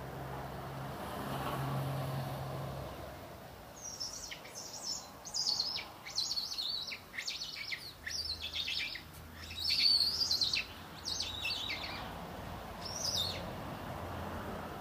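A bird calling in quick runs of short, high chirping notes, starting about four seconds in and stopping a little before the end, over a faint low hum.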